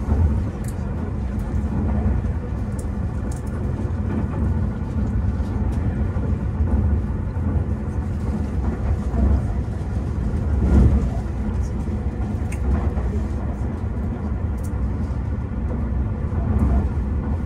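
Steady low rumble of a Tobu Spacia X electric express train running, heard from inside the passenger cabin, with a few faint light clicks.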